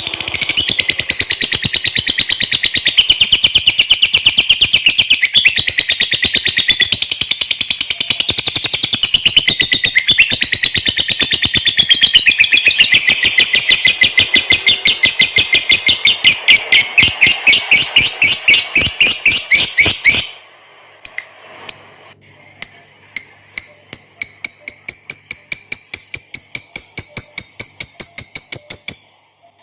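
Lovebird singing a long ngekek: an unbroken string of rapid, high chattering notes for about twenty seconds, then, after a brief pause, another run of repeated notes that stops shortly before the end.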